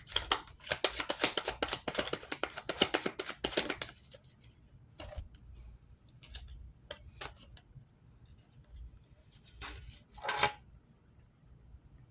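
A deck of tarot cards being shuffled: a rapid run of card flicks for about four seconds, then scattered single card clicks, and two short louder shuffles about ten seconds in.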